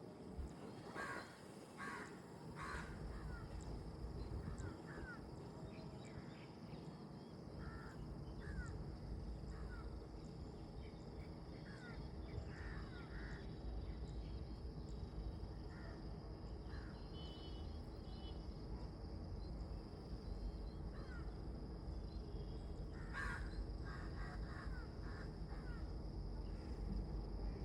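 Birds giving short calls here and there, a cluster of them about a second in and another near the end, over a steady low rumble.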